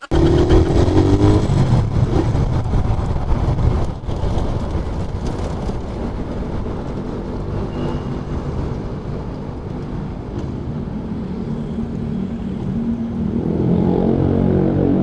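Suzuki Raider 150 motorcycle engine running under way, with a dense low rumble of road and wind noise; the engine note climbs in pitch as it revs up at the start and pulls louder again near the end.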